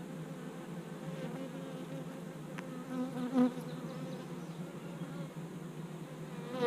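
Honey bees buzzing in large numbers around an opened beehive: a steady, even drone, with a brief louder sound about three and a half seconds in.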